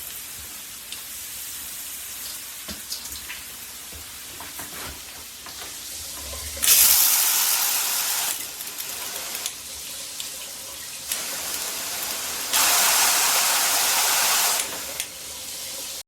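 PWERAN handheld shower head spraying water in a fine, misty setting, a steady hiss. Twice the spray turns much louder and hissier for a second or two, about halfway through and again near the end.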